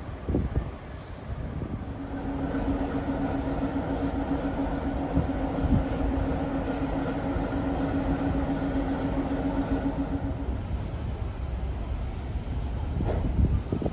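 Double-deck passenger train cars rolling past on the rails with a steady rumble. A steady hum runs from about two seconds in until about three-quarters of the way through, and a few sharp clicks come near the end.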